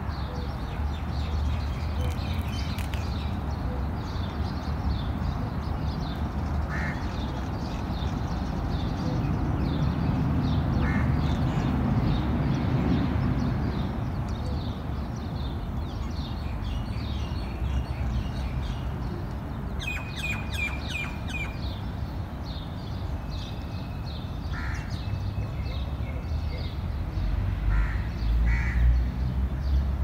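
Birds chirping and calling outdoors: many short high chirps throughout, with a burst of louder, quick calls about two-thirds of the way through. A steady low rumble runs underneath.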